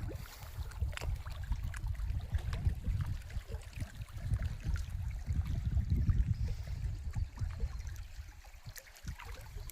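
Uneven, gusting rumble of wind on the microphone, with a few faint ticks over it.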